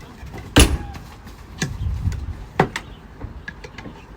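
The bird caller's metal stick being handled: a loud clank about half a second in, then a few lighter metallic clicks and taps.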